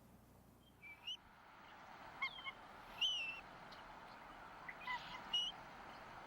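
Bald eagle calling: about five short, high whistled calls with curling pitch, spread over a few seconds, the strongest about three seconds in, over a faint steady hiss.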